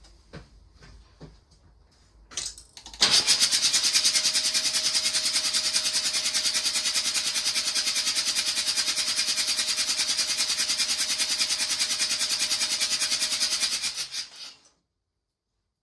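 Mazda RX-7 FC's 13B rotary engine cranked over on the starter with the spark plugs out and the fuel pump fuse pulled, to clear a flooded engine. The starter kicks in suddenly about three seconds in, spins the engine at an even, fast pulse for about eleven seconds without firing, then stops.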